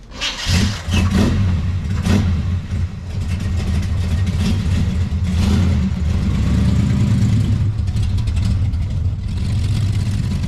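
Chevrolet Chevelle's engine starting about half a second in, then running with a steady low rumble as the car drives slowly forward.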